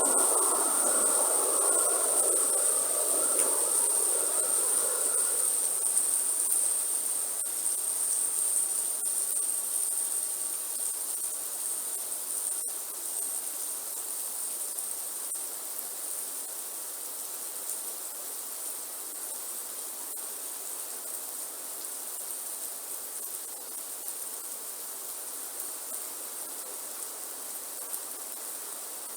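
Rainforest ambience: a steady high-pitched insect drone over an even hiss of rain. A busier layer in the middle range fades out over the first few seconds, and the whole sound grows gradually quieter.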